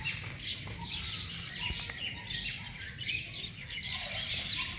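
Many small caged aviary birds chirping and tweeting continuously, with calls overlapping.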